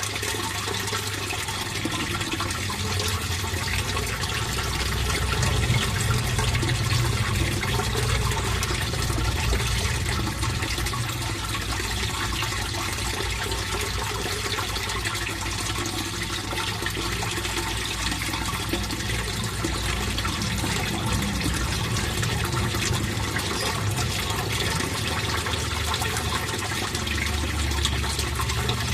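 Water flowing and splashing steadily into a fish pond, a continuous rushing with a deep rumble underneath.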